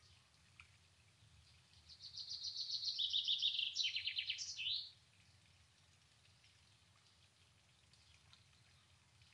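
A songbird sings one phrase of about three seconds, starting about two seconds in. It is a fast run of repeated notes that steps down in pitch in several sections and ends in a short flourish.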